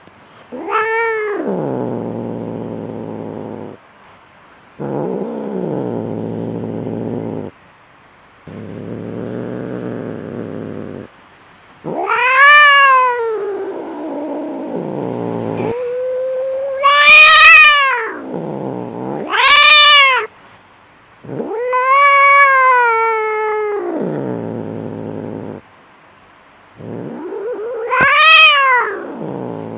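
Cats fighting: long low growls alternate with loud, drawn-out yowls that rise and fall in pitch. The loudest screeching yowls come around the middle, and another comes near the end. These are the aggressive yowls and growls of cats squaring off in a fight.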